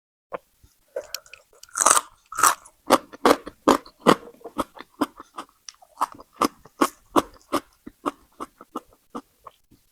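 A person biting into crunchy food and chewing it: two loud crunching bites about two seconds in, then steady crunchy chewing at about two to three chews a second.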